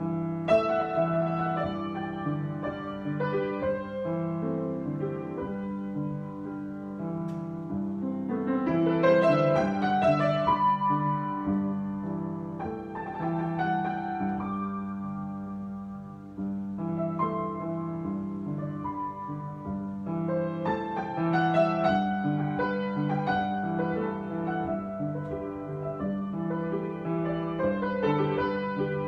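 Solo piano improvisation: sustained chords over a held bass, swelling louder about a third of the way in, easing off briefly past the middle, then building again.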